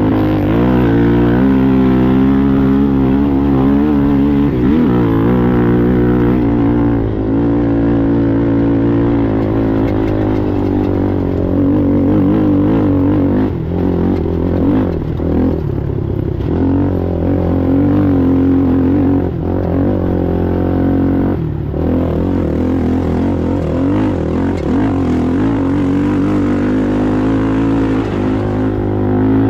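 ATV engine racing over desert terrain, its pitch rising and falling with the throttle, with brief lifts around the middle of the stretch before it pulls back up.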